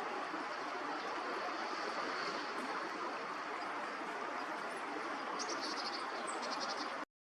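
Steady rushing noise of a flowing river. About five seconds in, a small bird gives two quick runs of high chirping notes. The sound cuts off abruptly just before the end.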